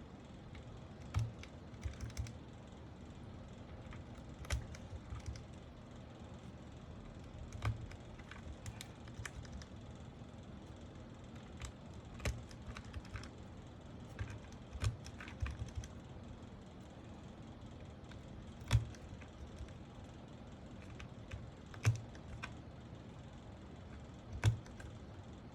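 Scattered, irregular clicks with soft low thuds from hands-on work on a mechanical keyboard, one every second or few.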